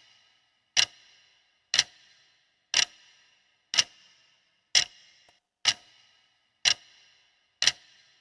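Clock ticking sound effect, one sharp tick about every second with a brief ringing after each, counting down the time allowed to answer a quiz question.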